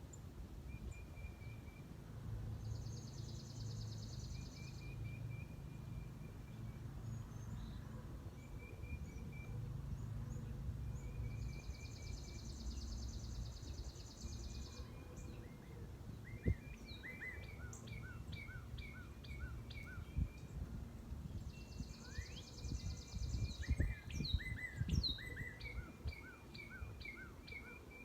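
Wild birds at a feeder calling: a high, dry trill comes three times, with short repeated notes between. From about halfway in, a busy run of quick chirps joins, over a low rumble of wind and a few sharp knocks.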